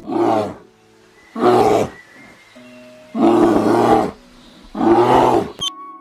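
Four loud, rough animal roars, each about half a second to a second long, over background music with steady held notes.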